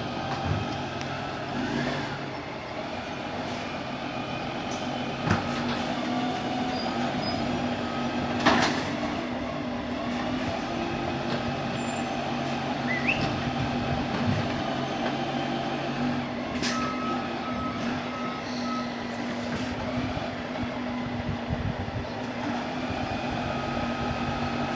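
Garbage truck engine running steadily, with occasional clanks and a short run of beeps about two-thirds of the way in.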